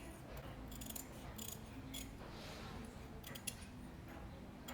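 Light clicks and clinks from small parts and hand tools being handled, coming in brief clusters, over a faint low hum.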